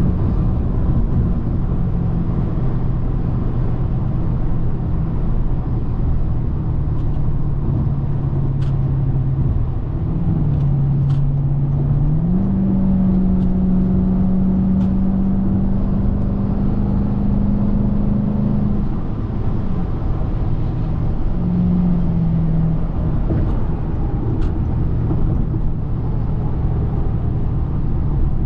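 Hyundai Genesis 4.6 V8 engine running while driving, a steady engine hum over low road rumble. The engine tone steps up about twelve seconds in, holds for several seconds, then drops back.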